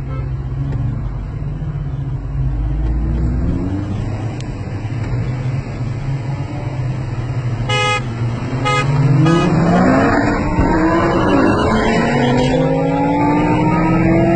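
Car engines running steadily. A car horn gives two short toots about eight seconds in, then the engines accelerate hard, their pitch rising, with drops at the gear changes.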